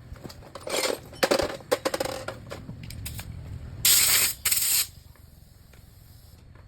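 Workshop handling noise: clicks and rubbing of parts. About four seconds in come two short, loud bursts of spray hiss, the second briefer than the first.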